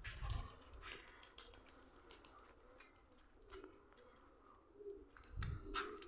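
Domestic birds cooing softly in low, short murmurs, mostly in the second half, with a few faint high chirps, light clicks and a couple of dull thumps.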